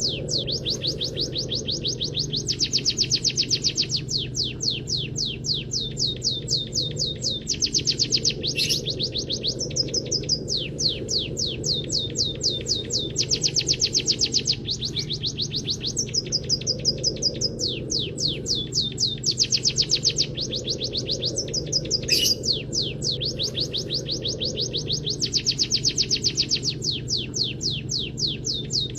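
Cage-bird training recording of munia and canary song: long runs of rapid, evenly repeated chirps, each falling in pitch, pausing briefly every few seconds. A steady low hum runs underneath.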